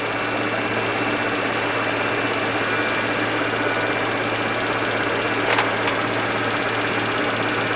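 Steady cockpit noise of a Boeing 737-200 on the ground with its engines running: an even rush over a low hum. A brief click about five and a half seconds in.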